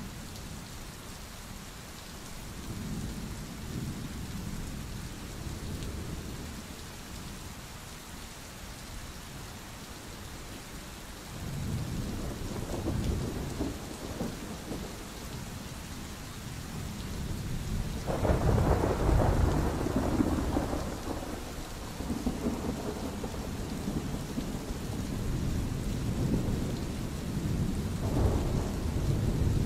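Steady rain with rolling thunder. Low rumbles come and go, a stronger one about a third of the way in and the loudest about two-thirds in, with another near the end.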